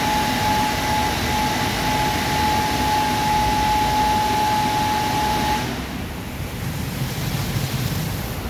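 WashTec SoftCare Pro Classic rollover car wash running, a steady loud rush of air or water with a steady whine over it. About five and a half seconds in, the whine stops and the rush drops to a duller, quieter noise.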